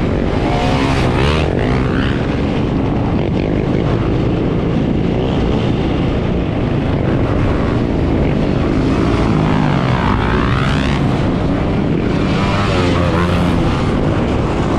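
A pack of dirt bikes and ATVs running together, engines revving with pitch sweeping up and down as machines pass close by.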